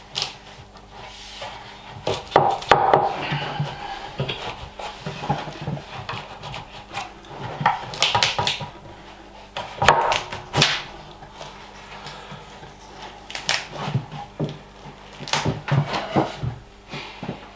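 Wood being handled on a workbench: scattered knocks, taps and short scrapes at irregular intervals, over a faint steady low hum.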